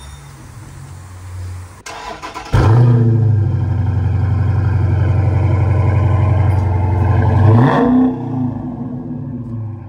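2017 Dodge Challenger Scat Pack's 392 HEMI V8 breathing through Flowmaster Super 10 mufflers with the resonators deleted. After a moment of cranking it starts about two and a half seconds in, flares and runs a loud, steady fast idle. Near the end it rises briefly, then settles to a quieter idle.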